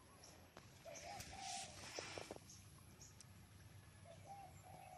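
Near silence with faint, low cooing bird calls, one group about a second in and another near the end. A few soft clicks come about two seconds in.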